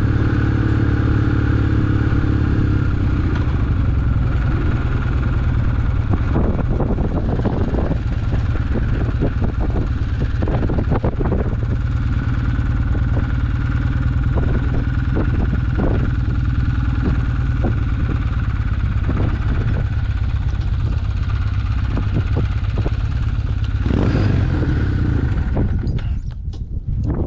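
Kawasaki W800's air-cooled parallel-twin engine running steadily through an aftermarket Yamato muffler while riding, with a rush of wind noise over it. The sound drops and thins near the end.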